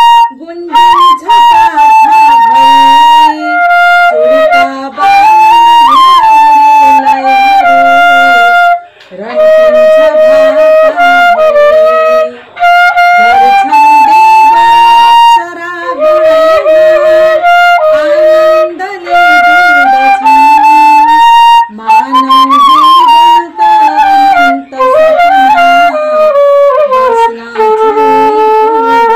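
Background music with a flute melody, played in phrases of held and sliding notes with short breaks between them.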